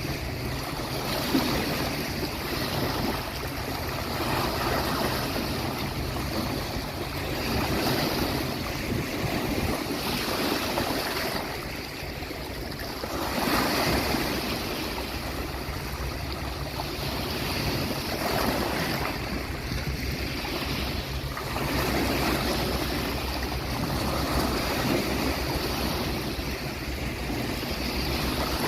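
Sea waves breaking and washing onto a beach, the surf swelling and easing every few seconds over a steady low rumble.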